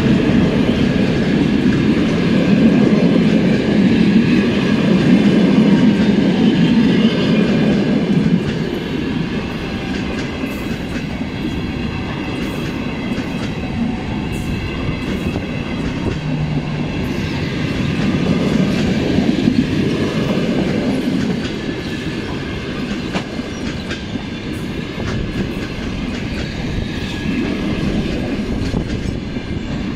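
Passenger coaches of a train rolling past close by: a steady rumble of wheels on rail with repeated clickety-clack over the rail joints. It eases slightly about eight seconds in.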